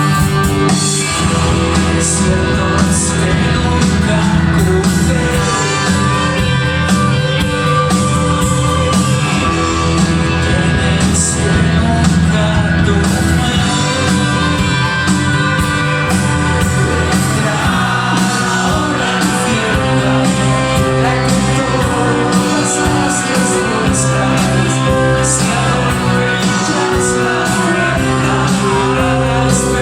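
Rock band playing live: electric guitars, bass and drums, with a lead singer's voice.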